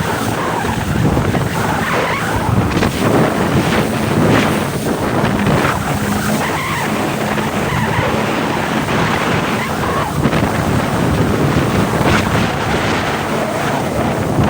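Yamaha WaveRunner jet ski running under way: a steady engine hum mixed with heavy wind noise on the microphone and rushing water.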